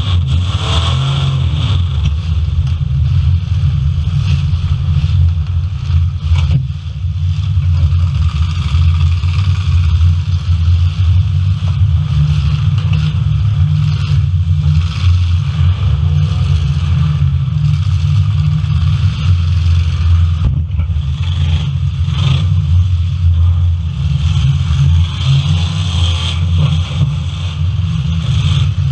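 Full-size demolition derby cars' engines running with a heavy, steady rumble and some revving, with a few sharp bangs along the way.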